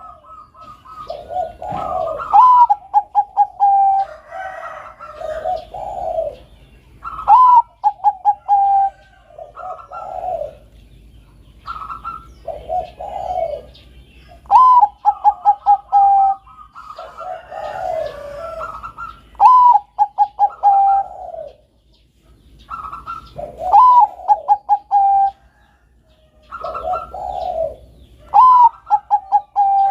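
Bangkok-bred zebra doves (perkutut) cooing: phrases about every two and a half seconds, each a rising note, a quick run of stuttering coos, then lower notes.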